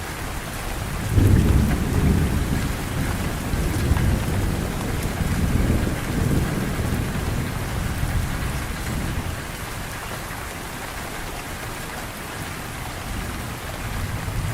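Heavy rain falling steadily, with low rolls of thunder rumbling through it about a second in and again midway.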